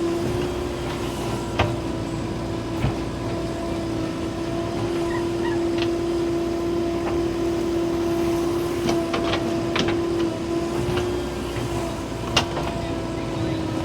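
JCB 3DX backhoe loader running with a steady, unchanging whine, with a few sharp knocks and clanks, the loudest about twelve seconds in.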